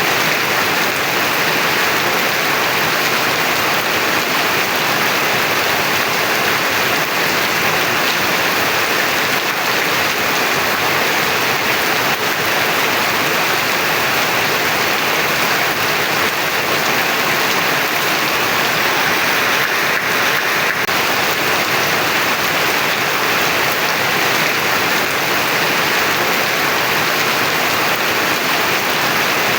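Heavy rain pouring down steadily and evenly, a dense unbroken hiss of drops on surfaces.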